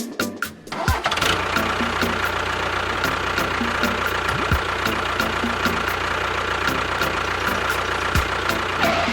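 A small motor running steadily with a loud, even hum and a high whine, starting abruptly about a second in and cutting off at the end.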